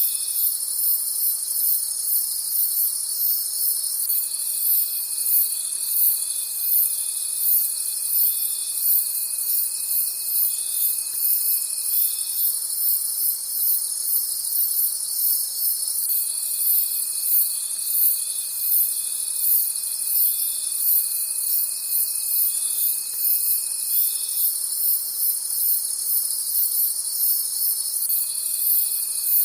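Night chorus of crickets and other insects: a dense, high-pitched chirping pulses rapidly throughout, and a lower steady trill switches on and off, each run lasting about eight seconds.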